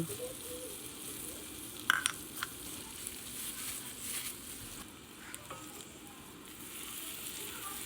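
Minced garlic sizzling in melted butter in a saucepan, a steady frying hiss, with a couple of light utensil clicks against the pan about two seconds in.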